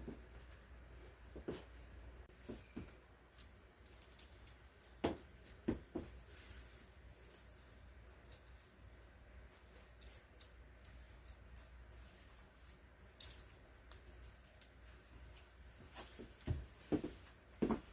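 Scattered light clicks and small knocks from someone moving about and handling things, over a low steady room hum, with a few sharper knocks about five seconds in and near the end.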